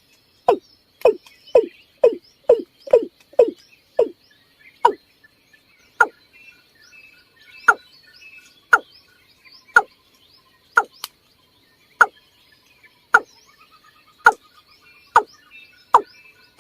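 Watercock calling: a series of short calls, each falling quickly in pitch, about two a second at first, then slowing to about one a second. A faint steady high whine and a few faint chirps sit under them.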